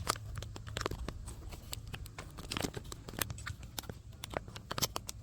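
Cloth flag flapping in the wind, giving irregular sharp snaps and crackles over a steady low wind rumble.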